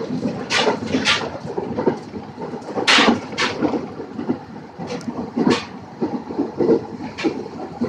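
JR Kashima Line train car heard from inside: a steady rumble broken by irregular clunks and short hissy bursts. There is no chime.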